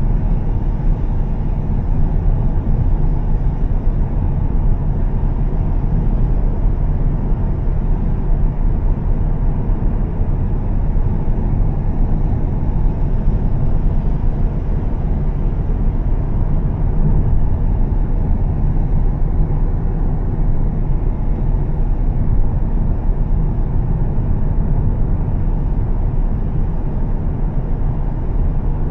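2013 Volvo S60 T6 with a Heico exhaust cruising at a steady pace, with a constant low rumble of engine, exhaust and road noise that stays even throughout.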